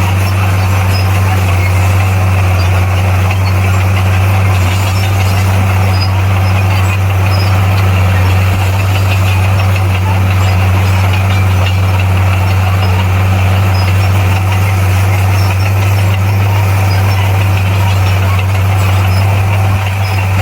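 Heavy diesel engine of a bulldozer running steadily, a deep even hum with no pauses or changes in pitch.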